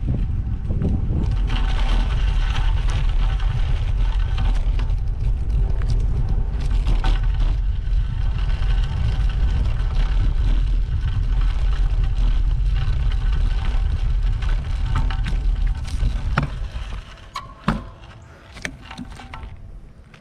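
Wind buffeting the microphone over the tyre and drivetrain noise of a road bike being ridden. About sixteen seconds in it drops away as the bike slows, leaving a few scattered clicks.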